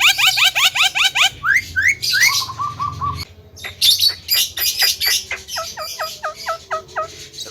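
Javan myna (jalak kebo) calling: quick runs of repeated short rising notes, several upward whistled glides, and harsh squawks and clicks.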